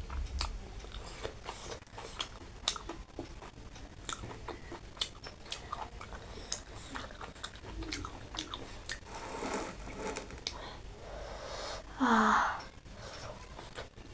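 Close-up chewing and wet mouth clicks of someone eating. About three-quarters of the way through there is one short, loud voiced sound.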